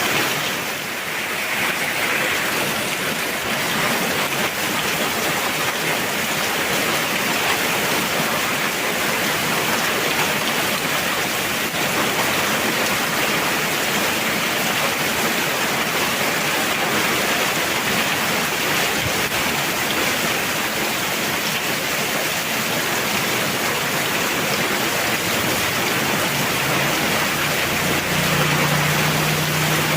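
Heavy rain falling steadily, a dense even hiss. Near the end a low steady hum joins it.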